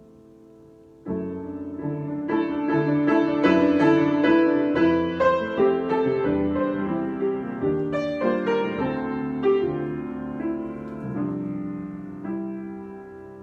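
Solo piano improvisation: a held chord dies away, then a new phrase of chords and melody comes in about a second in and gradually fades toward the end.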